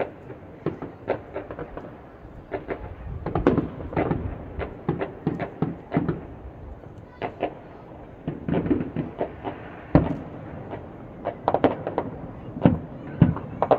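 Fireworks exploding: many bangs at irregular intervals, some overlapping, with the sharpest about ten seconds in.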